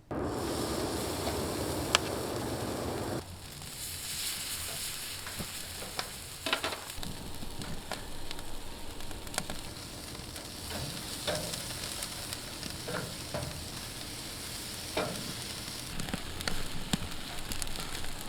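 Chicken skewers sizzling over an open fire, a steady hiss with scattered sharp pops and crackles. About three seconds in the sound changes to a quieter, thinner sizzle.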